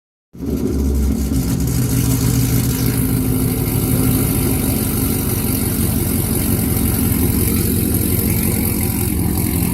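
Car engine idling loudly through headers with no further exhaust, a steady rapid pulsing note that holds without big revs.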